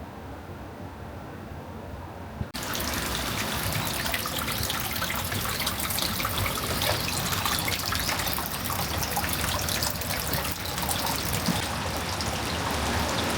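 Water running and splashing steadily, starting abruptly about two and a half seconds in after a quiet stretch.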